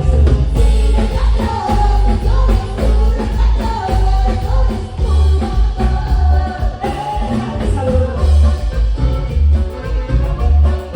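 Live Latin band music with a singer over a heavy, loud bass.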